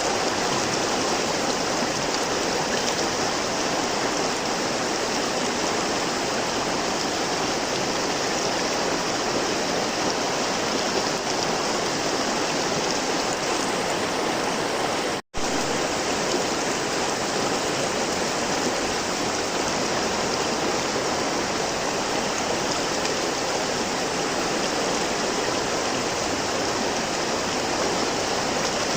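River water flowing in a steady rush. It cuts out to silence for a split second about halfway through.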